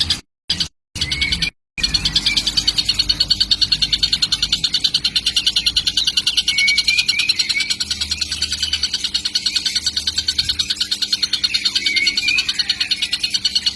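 Young tengkek (kingfisher) chick calling without pause, a rapid steady run of short high calls several a second, with a few brief chirps mixed in. The sound cuts out briefly a few times near the start.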